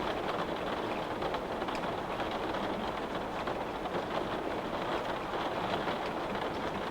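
Rain falling on a window pane: a steady patter with many small drop ticks scattered through it.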